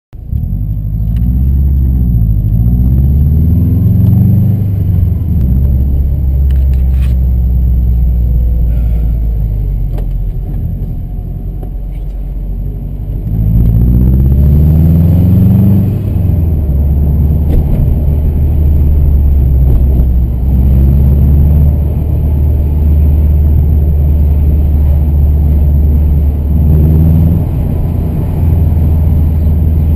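Subaru's engine heard from inside the cabin while driving. It climbs in pitch through several gear changes in the first few seconds and again about 13 seconds in, eases off briefly in between, then runs steadily at cruising speed with small surges.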